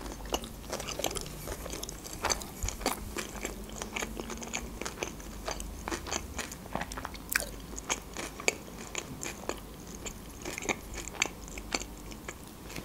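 Close-up chewing of crunchy sushi rolls: a steady run of sharp, crisp crackles as the food is bitten and chewed.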